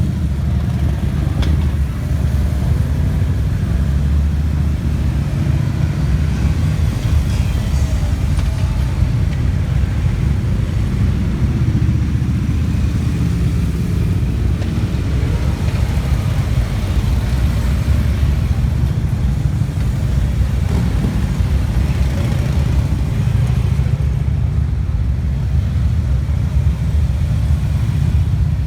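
Many motorcycle engines running together in a steady, loud low rumble.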